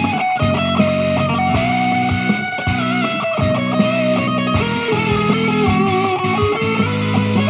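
Guitar improvising a lead melody of held notes that slide between pitches, over a backing track with a steady beat.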